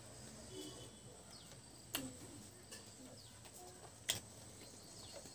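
Mouth sounds of a man eating rice and mutton curry by hand: quiet chewing with two sharp lip smacks, about two and four seconds in.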